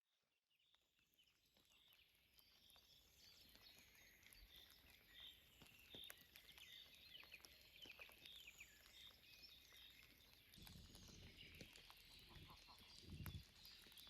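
Faint forest ambience with small birds chirping, joined about two-thirds of the way in by soft low thuds.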